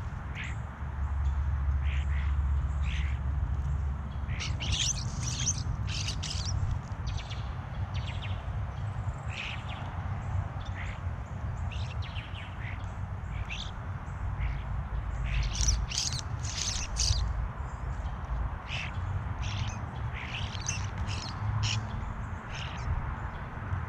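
Backyard birds calling: many short, sharp calls in scattered clusters, busiest about five seconds in and again around sixteen seconds in, over a constant low rumble.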